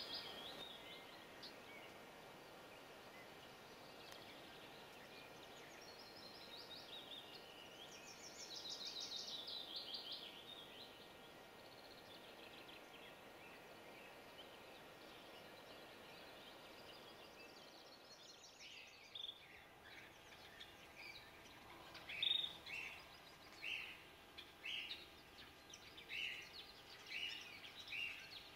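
Faint birdsong over a quiet outdoor background: high chirping phrases in the first half, then from about two-thirds through a run of short calls repeated roughly once a second.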